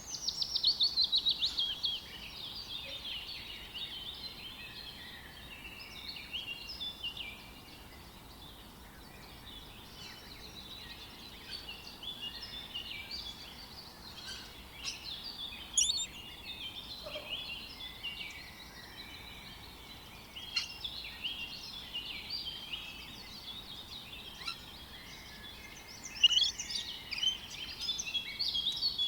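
A chorus of birds calling and singing over one another in many short, high chirps and whistles. A rapid run of quick notes is loudest in the first two seconds, and another busy flurry comes near the end.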